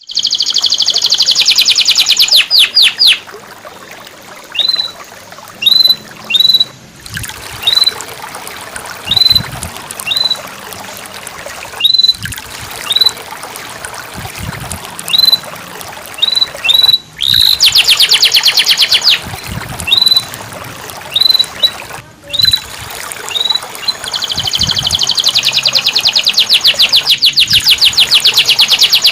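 Canary song: long fast trills of rapidly repeated high notes near the start, about two-thirds of the way in and again near the end, with single short rising chirps between them, over a steady trickling-water background.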